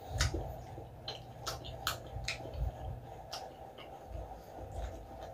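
A person chewing a mouthful of balot (boiled fertilised duck egg) with the mouth closed, close to the microphone: irregular wet mouth clicks and lip smacks, about one to three a second, over a low rumble.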